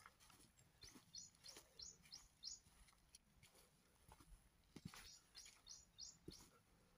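Faint songbird chirping: a run of short, high, quick notes about a second in, repeated about five seconds in, with a few faint knocks in between.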